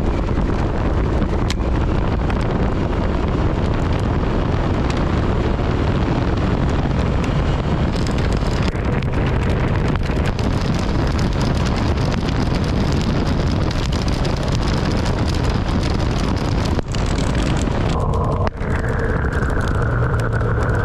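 Loud wind roar and road noise from a motorcycle riding through a hailstorm, with hail and rain pelting against the bike and the rider. Near the end a steadier hum with a few tones comes in.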